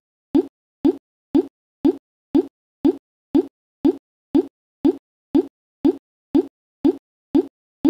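A short, identical pop repeating evenly about twice a second, with dead silence between each one, like a looped sound effect.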